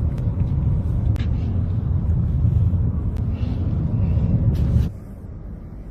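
A car driving, a loud steady low rumble of engine and road noise with a few faint clicks. It drops off suddenly near the end.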